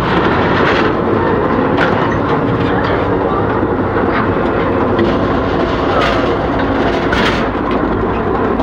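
Passenger train running, heard loudly in the passage between cars: a steady rumble and rattle of the cars on the track, with a few sharp knocks and clanks.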